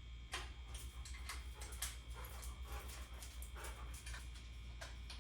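A dozen or so light clicks and taps at uneven spacing, over a steady low hum.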